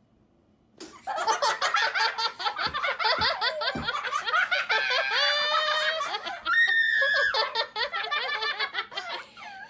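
Hearty human laughter that breaks out suddenly about a second in and carries on loud and unbroken, with a high squealing stretch near the middle.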